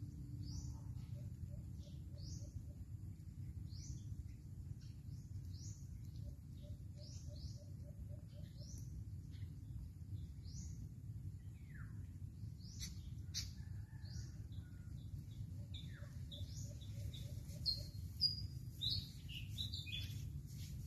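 Birds chirping and calling: many short high chirps, a few louder ones near the end, and three times a quick run of lower notes. A steady low background rumble runs underneath.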